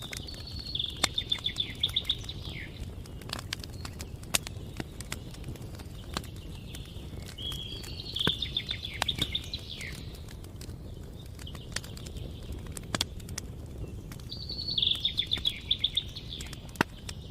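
Campfire crackling, with sharp pops scattered throughout over a low steady rush. A songbird sings three short, quick, high-pitched trilled phrases over it.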